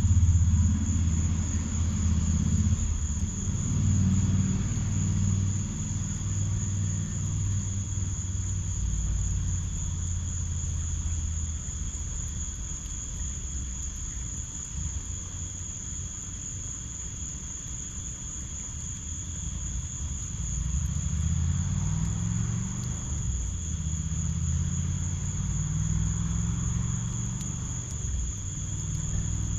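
Crickets trilling steadily and high-pitched, over the low rumble of passing road traffic. The rumble is strongest in the first few seconds, fades, and swells again about twenty seconds in.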